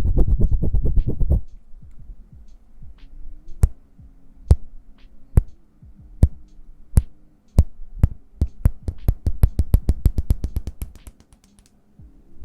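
Hands rubbing together quickly for a moment, then a series of sharp clicks, spaced out at first and then coming faster and faster, over faint low steady tones.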